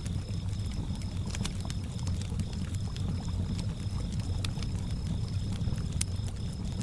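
Layered campfire-by-the-lake ambience. A wood fire crackles with scattered sharp pops, crickets trill in an even pulsing high chirp, and water laps with a low rumble underneath.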